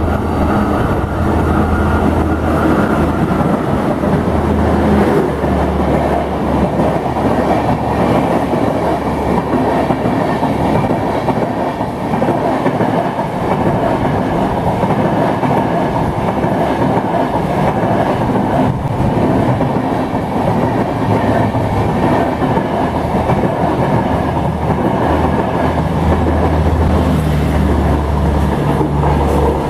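A WAP-4 electric locomotive hauling the Howrah–Mumbai CST Duronto Express runs through the station at high speed. The locomotive comes first, then a long rake of coaches keeps up a loud, steady rush of wheel and rail noise over a low hum.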